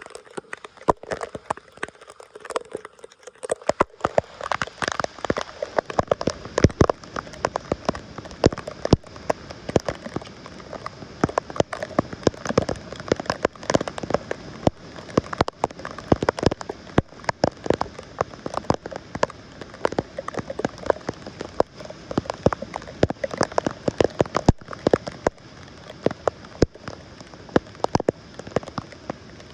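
Rain pattering close by, a dense irregular patter of sharp drops that thickens about four seconds in.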